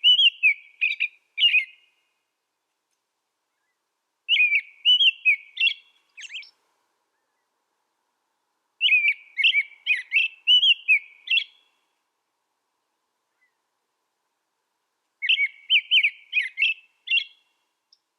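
A small songbird singing four short phrases of rapid chirps and whistled notes. Each phrase lasts about two seconds, with silent pauses of a few seconds between them.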